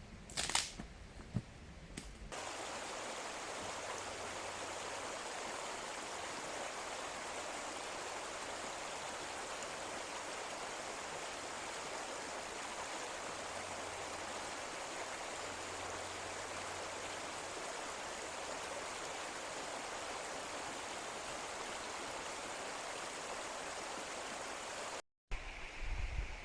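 Mountain stream running steadily, an even rushing of water. A few sharp clicks in the first two seconds come before it, and it breaks off abruptly near the end.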